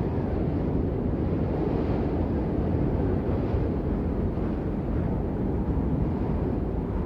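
Steady, dense rainfall: an even rushing wash with a heavy low rumble and little hiss, unchanging throughout.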